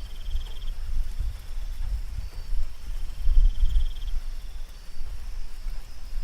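Night ambience of insects: a steady high drone with two short pulsed trills, one at the start and one about three seconds in, over a loud, uneven low rumble.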